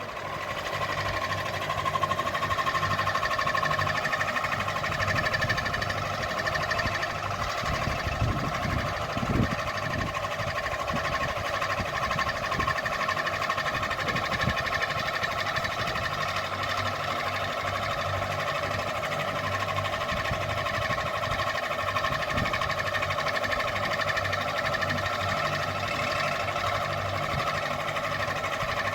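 Ceiling fan running steadily: a constant motor hum with a steady whine over it, and a few faint low knocks now and then.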